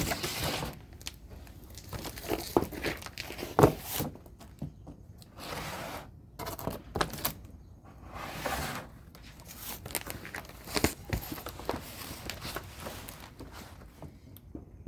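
Irregular rustling and scraping with scattered sharp knocks, the loudest about three and a half seconds in: hands and tools being handled while getting set to drain the engine oil.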